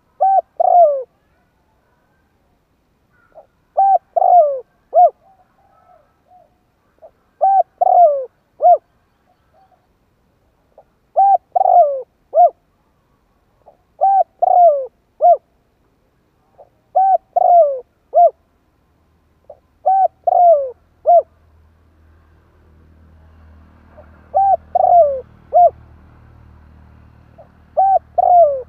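Spotted dove cooing its song, a short three-note phrase repeated about every three to four seconds, nine times. A faint low hum rises under the calls in the last third.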